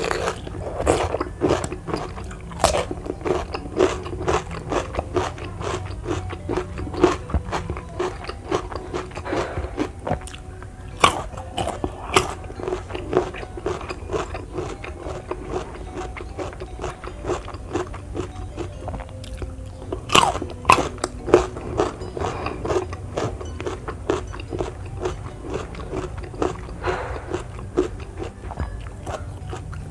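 Crunchy bites into raw vegetables, starting with fresh cucumber dipped in sambal, followed by chewing. There are many crisp crunches, coming in bunches, with wetter chewing between them.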